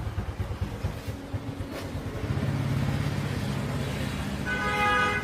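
Small motorcycle engine running with rapid firing pulses, then revving up about two seconds in. A short steady tone sounds near the end.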